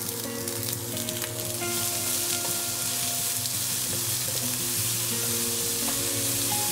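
Chopped red onion and browned minced chicken sizzling in a hot frying pan, stirred with a slotted spatula. A few clicks come as the onion drops in, and the sizzle swells about a second and a half in.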